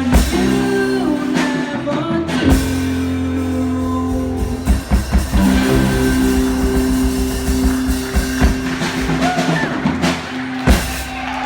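Live rock band playing: drum kit and guitar over sustained held chords, with a few loud crashing drum hits, one near the start, one about two and a half seconds in and one near the end.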